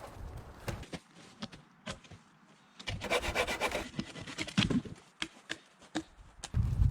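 Wood being handled and scraped by hand: scattered clicks and knocks, about a second of rapid scraping strokes three seconds in, and a heavy thump near the end.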